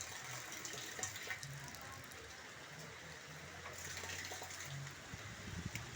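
Rainwater falling and running, a faint steady wash of water noise.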